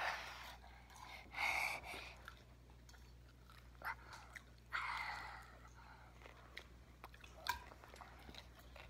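A young child biting and chewing fried okra: faint, soft chewing noises in a few short spells, with small clicks.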